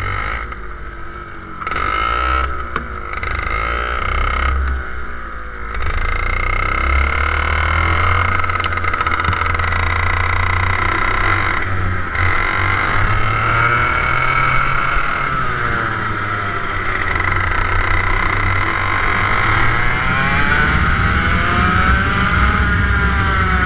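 TM K11B 100cc water-cooled two-stroke kart engine under way, uneven and broken for the first few seconds, then running continuously with its pitch repeatedly rising and falling as it revs up and comes off the throttle.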